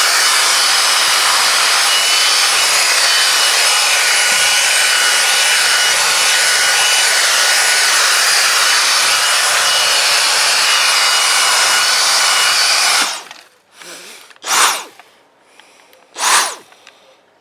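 Dyson DC56 handheld vacuum running steadily, a hiss of rushing air with a high-pitched whine, then switched off about 13 seconds in and dying away quickly. Two short loud noises follow near the end.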